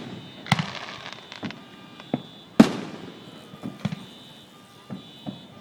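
Aerial fireworks going off: a loud boom about half a second in and a louder one about two and a half seconds in, each echoing away, with smaller pops and crackles between them.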